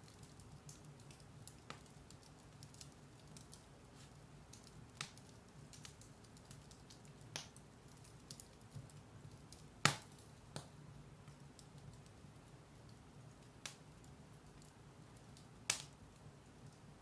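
Firewood burning in a fireplace: scattered crackles and pops over a low steady hiss, the sharpest pop about ten seconds in.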